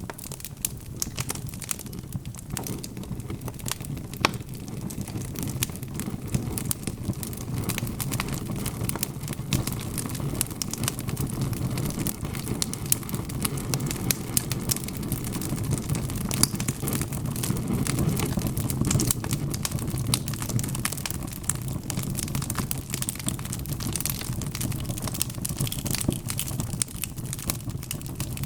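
Wood fire burning with a steady low rumble of flames and frequent sharp crackles and pops of the burning logs.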